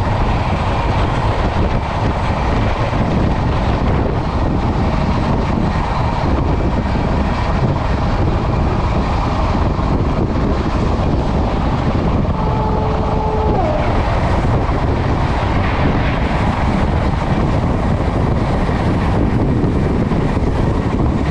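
Passenger train running at speed, a steady rumble of wheels on rail. A brief steady tone sounds about twelve seconds in.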